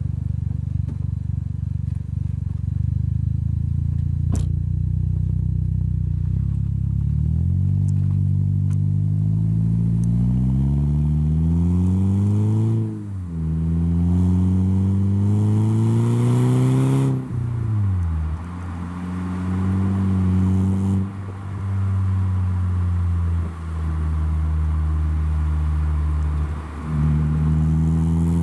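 Saab 9-3 with a handmade stainless-steel full exhaust system with a switchable valve, driven under acceleration: the exhaust note climbs in pitch, drops sharply at two gear shifts partway through, then holds a steady pitch at cruise.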